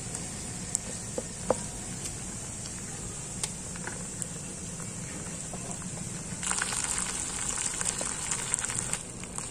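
Saag being stirred into hot desi ghee with garlic, ginger and green chillies in a frying pan. A few sharp clicks come first, then about six and a half seconds in a dense sizzle breaks out for two or three seconds as the greens are worked into the hot fat.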